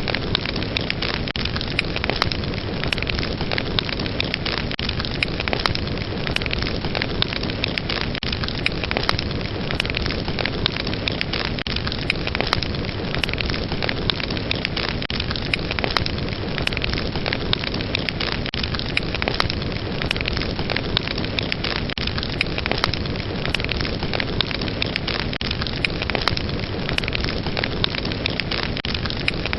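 Wood fire burning with a steady hiss and frequent sharp crackles and pops.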